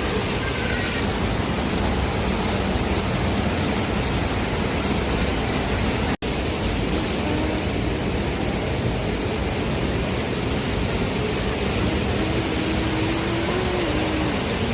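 Waterfall: a steady rush of falling water, broken by a split-second dropout about six seconds in.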